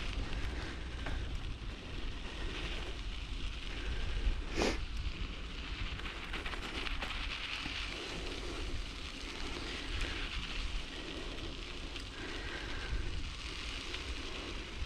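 Bicycle riding over a rough track: wind buffeting the microphone with a steady rumble and the tyres crackling on the ground, with one sharp knock about four and a half seconds in.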